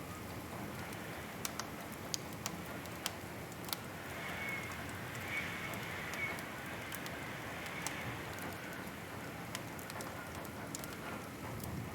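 Wood fire crackling in a fireplace: scattered sharp pops over a steady soft hiss that grows a little louder in the middle.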